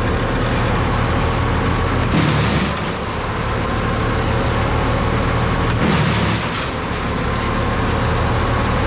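An engine running steadily, with two short surges of hiss about two and six seconds in.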